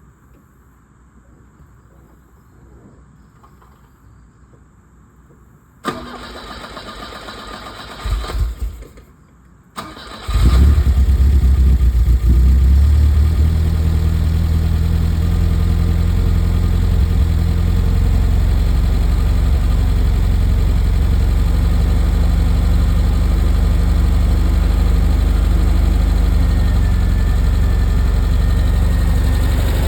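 Cold start of a Volvo P1800's four-cylinder engine with the choke pulled: the starter cranks from about six seconds in, the engine catches about ten seconds in, and it settles into a steady fast idle on the choke.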